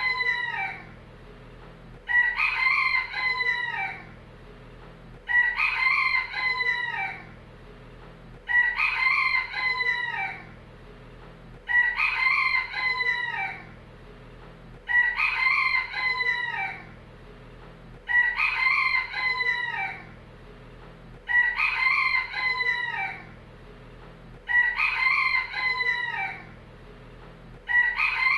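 Rooster crowing: the same cock-a-doodle-doo repeated about every three seconds, nine times, each crow ending on a falling note.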